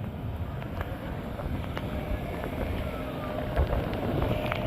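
A vehicle engine running low and steady as a stuck vehicle is worked out of floodwater, with wind on the microphone and a few faint clicks.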